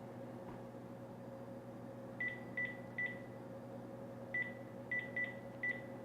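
Phone keypad beeps as a number is dialed on speakerphone: seven short beeps of the same pitch, three in quick succession, then a pause, then four more. A faint steady hum runs underneath.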